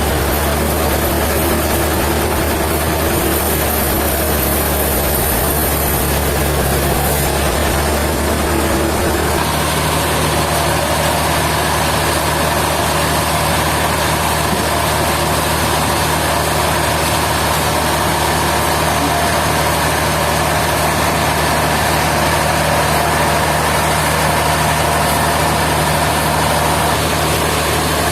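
Sawmill machinery running with a steady, loud drone; about nine seconds in, the hum shifts to a different, steady pitch.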